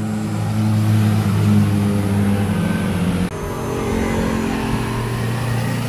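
Vehicle engine running at a nearly steady pitch, cutting abruptly about three seconds in to another steady engine sound.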